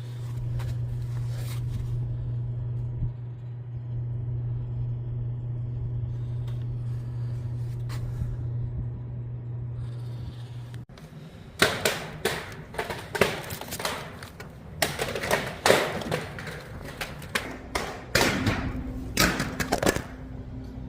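A steady low hum for about the first half, cutting off abruptly, then irregular knocks, clanks and rustles of hands-on work on the unit.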